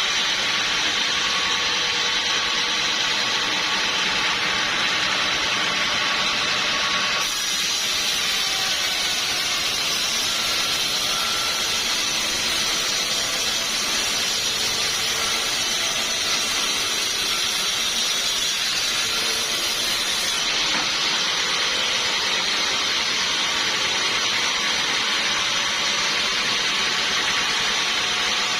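Sawmill machinery running steadily with a loud, even mechanical noise, most likely the saw cutting timber. It turns brighter and hissier from about seven seconds in until about twenty seconds in.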